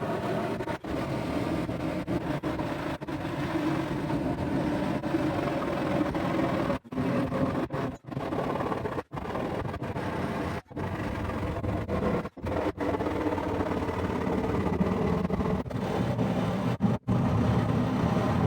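Japanese ryoba handsaw cutting through the wooden boards of an old chest: a steady rasping run of strokes, broken by a few brief pauses, that stops just after the end.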